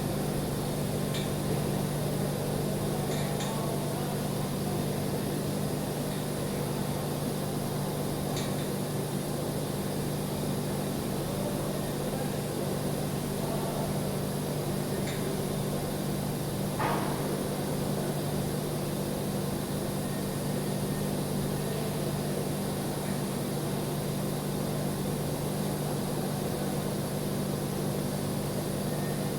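Welding equipment running with a steady low hum over an even hiss. A few faint ticks are heard, and a short crackle comes about 17 seconds in.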